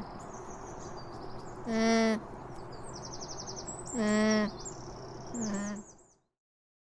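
Alpaca humming: short, even-pitched hums about every two seconds over a background of small birds chirping. The sound cuts off about six seconds in.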